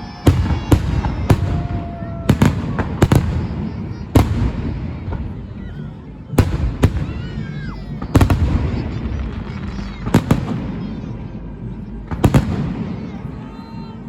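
Fireworks display shells bursting overhead: a series of sharp bangs, often in quick pairs, each trailing off in a rumbling echo.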